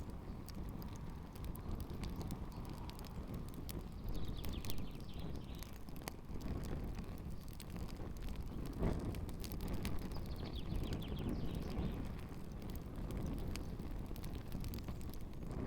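Campfire burning with canvas sneakers in the flames, crackling with frequent small pops and a few louder snaps over a steady low rumble.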